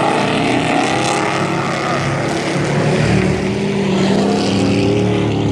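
Engines of a pack of dirt-track racing trucks running hard during a heat race, their pitch rising and falling as the trucks work around the oval.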